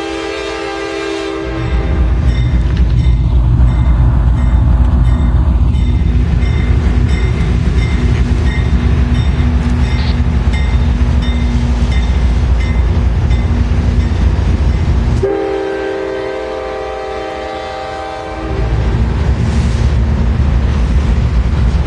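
Horn of CSX diesel freight locomotives passing close by: one long horn blast that ends about a second and a half in, then a loud, steady low rumble of the locomotives and the double-stack container cars rolling past. A second long horn blast comes about three-quarters of the way through, and the rumble resumes after it.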